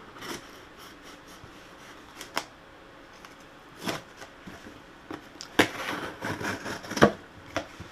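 Packaging being handled and opened by hand: scattered rustles, taps and clicks, busiest from about five to seven seconds in.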